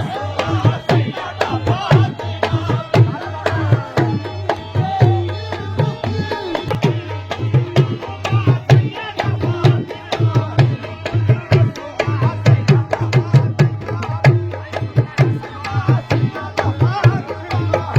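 Qawwali music: a fast, steady hand-drum rhythm with a heavy low beat and many sharp strokes, under a wavering melody line.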